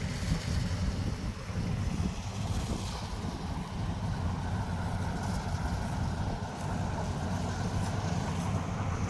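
Corn harvester running steadily in the field, a continuous low engine drone with machinery noise.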